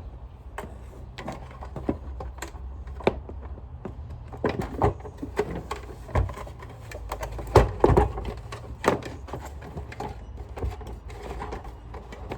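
Irregular clicks and knocks of plastic parts being handled and pressed together as the bumper is fitted back onto a Sanitaire upright vacuum, the loudest knocks a little past the middle, over a steady low rumble.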